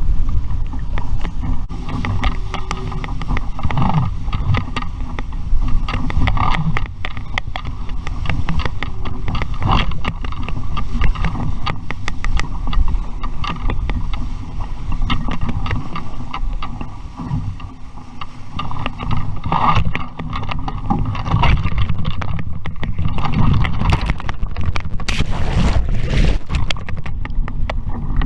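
Wind buffeting the microphone aboard an RS Vareo sailing dinghy under way, with water splashing and frequent short knocks and clicks.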